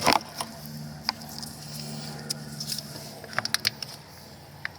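Scattered light clicks and taps from parts and tools being handled on an engine, with a sharp click at the start and a cluster of clicks near the end, over a steady low hum.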